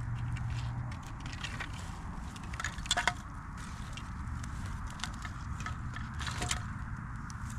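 Campfire burning, with scattered crackles and sharp pops from the burning wood over a steady low background noise; the loudest pops come about three seconds in and again near six and a half seconds.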